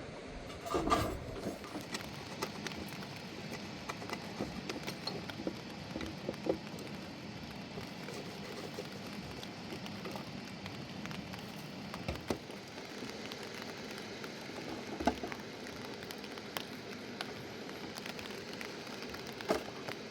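Steady rain pattering on surfaces, with scattered drips and a few sharp knocks, the loudest about a second in.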